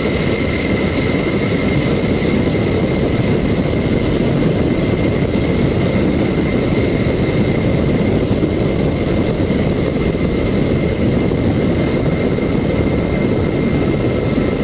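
Steady aircraft engine and airflow noise heard from on board during flight, with a constant high whine.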